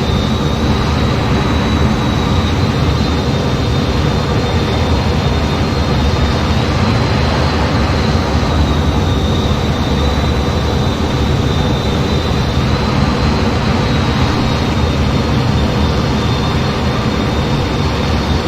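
Steady jet aircraft noise heard on board in flight: an even, unbroken noise with a constant high whine.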